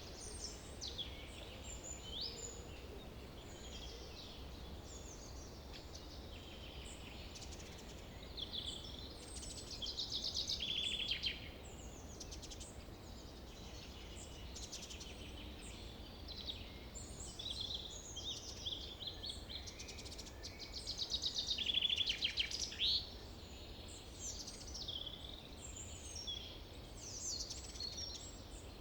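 Several small birds chirping and calling, with a louder rapid trill about a third of the way in and another about three quarters of the way through, over a low steady rumble.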